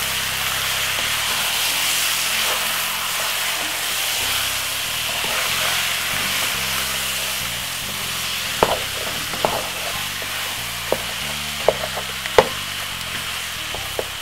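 Curry chicken pieces sizzling as they sweat in their own juices in a non-stick pot, stirred with a wooden spoon. Several sharp knocks of the spoon against the pot come in the second half.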